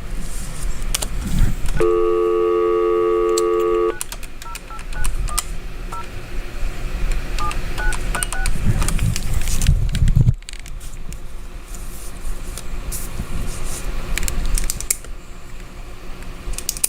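Telephone dial tone for about two seconds, then a phone number keyed in as a quick string of touch-tone (DTMF) beeps, placing an outgoing call.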